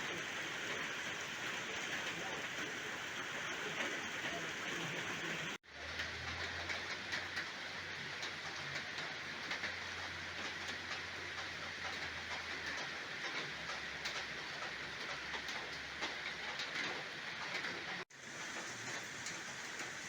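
Heavy rain falling: a dense, steady hiss. The sound drops out for an instant twice, about five and a half seconds in and again near eighteen seconds, and a faint low hum runs between the two dropouts.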